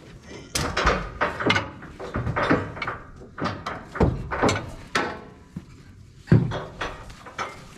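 Tie-down straps and hooks being handled on the trailer: an irregular series of knocks and clanks, the loudest about six seconds in.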